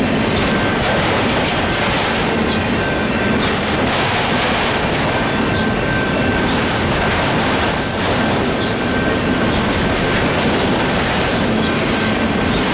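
Union Pacific train cars rolling through a grade crossing: a steady rumble and clatter of wheels over the rails, with a faint high squeal held throughout.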